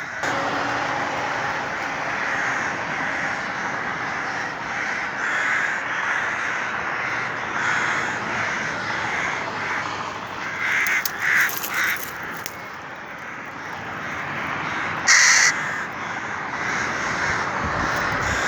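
Many crows cawing over and over, calls overlapping, around nests holding chicks. A brief louder sound comes about fifteen seconds in.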